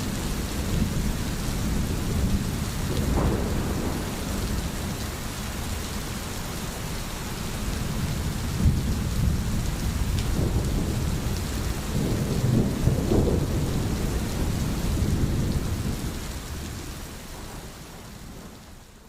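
Steady rain with low rolling thunder that swells a few times. The sound fades out over the last few seconds.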